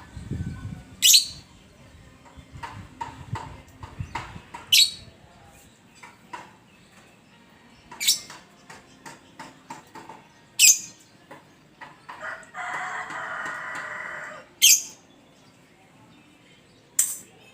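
A bird giving short, sharp, high-pitched calls, six in all, spaced a few seconds apart, with a longer buzzy call lasting about two seconds near the end.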